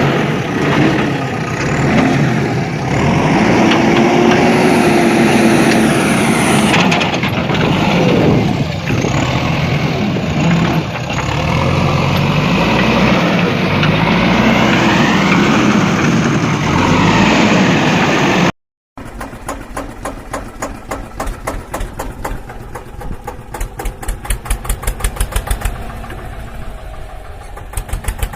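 Vehicle engine running and revving, its pitch rising and falling; after an abrupt cut a little past halfway, a fast, even chugging engine beat.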